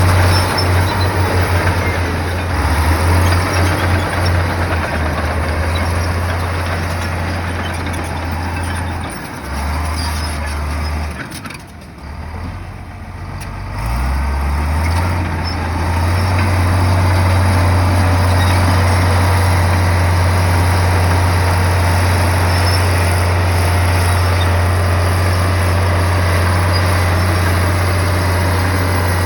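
Komatsu bulldozer's diesel engine running, its note dropping and easing off for a few seconds about halfway through, then picking back up and running steadily.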